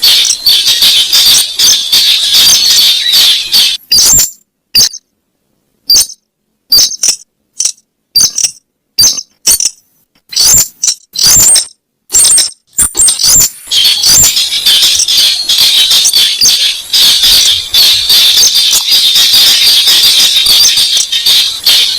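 Lure recording of the weris bird calling: rapid, high-pitched, squeaky chattering. It breaks into separate short sharp notes with silent gaps from about four seconds in, then turns dense and continuous again past the middle.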